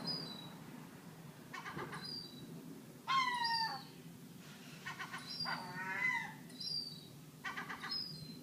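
Seagulls calling: four pitched calls about every two seconds, the loudest and longest about three seconds in. Short high chirps sound between them.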